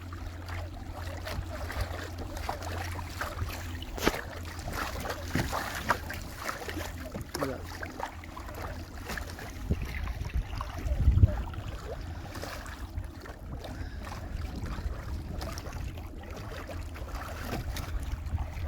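Kayak moving under a small electric trolling motor: water splashing and lapping against the hull over a steady low hum. A louder thump comes about eleven seconds in.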